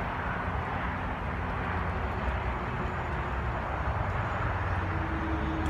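Steady hum of traffic on a nearby freeway, even and unbroken.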